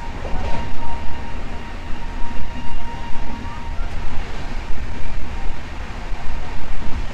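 Express passenger train running at high speed through a station, heard from an open coach door: wheel and track rumble with wind gusting on the microphone. A faint steady whine sounds for the first few seconds.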